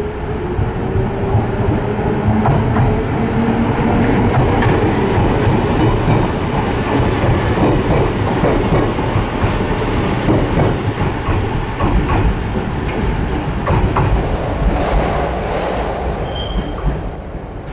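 Echizen Railway electric train passing close by: a motor whine rising in pitch at first, then wheels clattering over rail joints, the noise falling away near the end.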